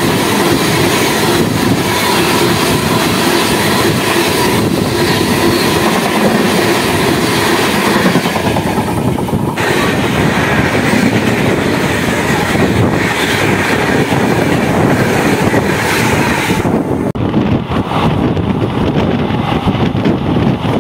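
Steady rush and clatter of train wheels and coaches as a superfast express runs past close alongside. About 17 seconds in the upper hiss drops away sharply, leaving the duller running rumble of the train heard from its open door.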